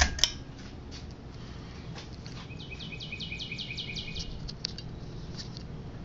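Pull chain of a 42-inch Bahama ceiling fan clicking twice as it is switched on high, then a low steady motor hum. A bird trills rapidly in the background from about two and a half to four seconds in.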